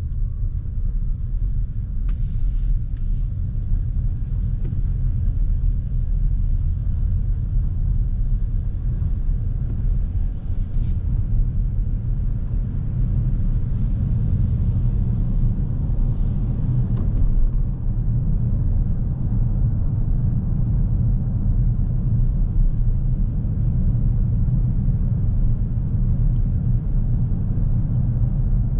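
Steady low road and tyre rumble inside the cabin of a Lexus NX350h hybrid SUV while driving, with a few faint brief higher noises about two seconds in and again around sixteen seconds.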